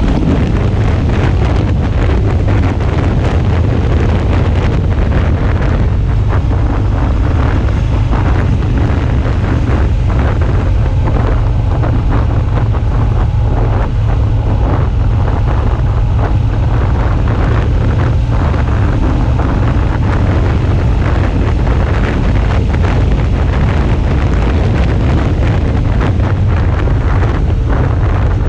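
Loud, steady wind rush buffeting an action camera's microphone on a moving Suzuki V-Strom 650 motorcycle. The bike's running sound lies under the wind.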